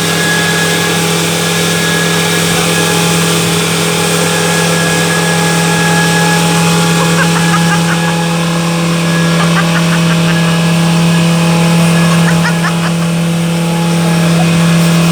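Boat engine running at a steady speed: a loud, even drone with a strong low hum, over a wash of hiss.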